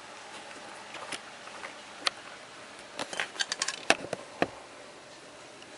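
A scattering of light, sharp clicks and taps over a quiet background, one about two seconds in and a quick cluster between about three and four and a half seconds in.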